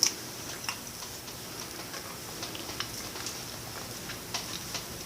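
Light, irregular small clicks and ticks, a few a second, over low room noise.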